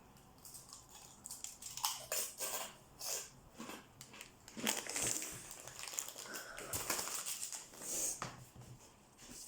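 Irregular scraping and crinkling of hands and utensils working chocolate chip cookie dough, from about two seconds in until near the end.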